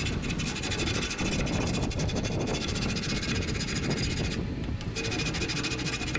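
Steady, rapid scraping of an abrasive tool over the steel of a hoe.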